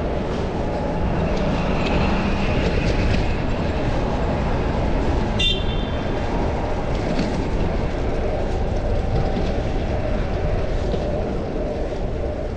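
Wind buffeting the microphone and road noise from a fixed-gear bicycle riding through city traffic. A short, high beep sounds about five and a half seconds in.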